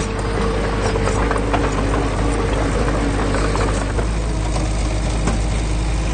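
Heavy earthmoving machine's diesel engine running steadily, with scattered light clanks over it.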